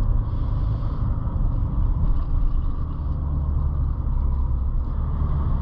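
A car running: steady low engine hum and rumble with road noise, no sharp sounds.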